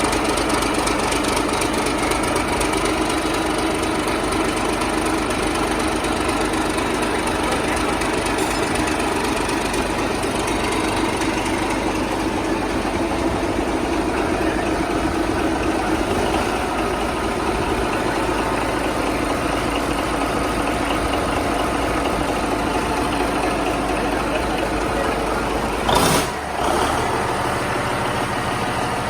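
Yanmar S165L-ST marine diesel engine running steadily. Near the end a brief loud burst of noise cuts in, after which the low part of its running note changes.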